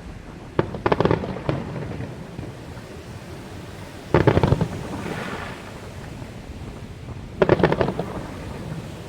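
Fireworks shells bursting in three groups of sharp bangs: a quick cluster about half a second to a second and a half in, a heavier burst about four seconds in, and another about seven and a half seconds in.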